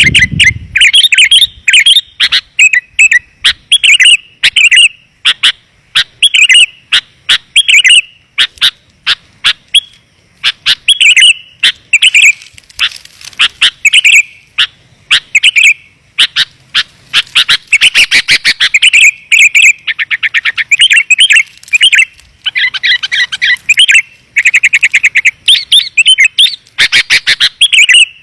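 Sooty-headed bulbul (kutilang) calling and singing in loud, rapid runs of short, clear chirps with brief pauses between runs: a lure call used to draw wild bulbuls in.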